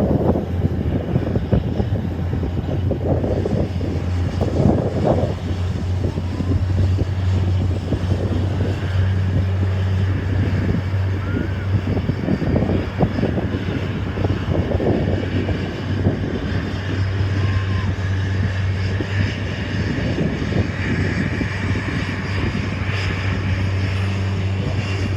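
Jet aircraft engines running steadily, a continuous low hum, with gusting wind buffeting the microphone.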